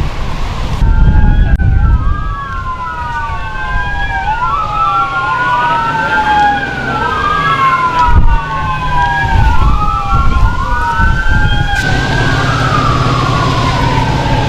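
Several emergency-vehicle sirens wailing at once, their pitches sliding up and down out of step with each other, over a low vehicle rumble. Near the end one siren sweeps down more slowly and a steady low engine hum comes in.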